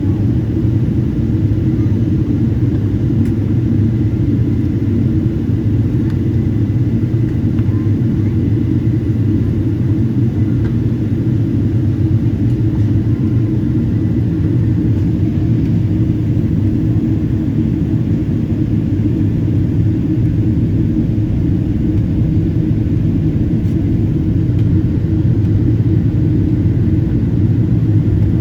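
Steady low rumble of a Boeing 777-200's cabin in flight on descent: engine and airflow noise heard from a passenger seat.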